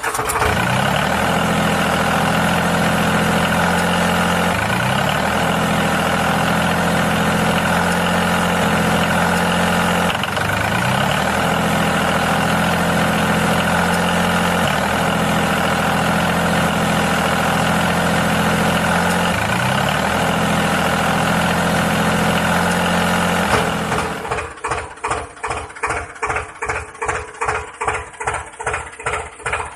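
Tractor engine running steadily, deep and even. About 24 s in it changes to a slower, chugging beat of about three to four thumps a second, like a diesel tractor idling.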